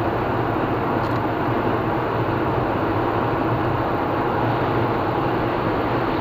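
Steady road noise of a car driving on a highway: tyre and engine noise holding constant, with no change in speed.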